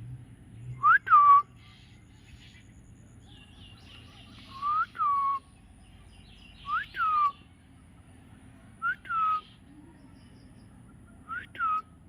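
A parrot whistling the same two-note call five times, about two seconds apart: each call is a rising note followed by a falling one.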